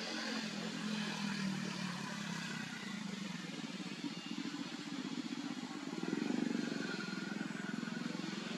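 Engine of a passing motor vehicle running steadily, swelling louder about six seconds in.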